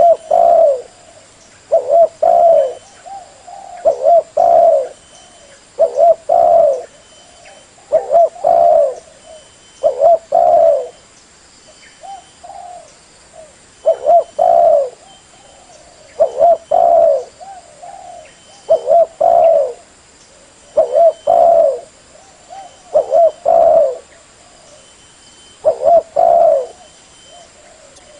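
Spotted dove (tekukur) cooing: its rhythmic coo phrase repeated over and over, a phrase roughly every two seconds, the call used to lure other spotted doves.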